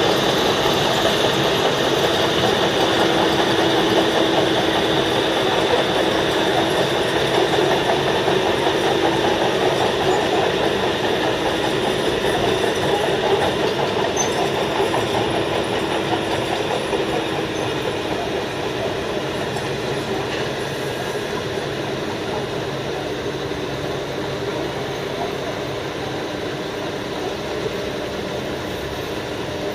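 Heavy road-repaving machinery running continuously, a dense mechanical rattle with a steady hum, slowly fading over the second half.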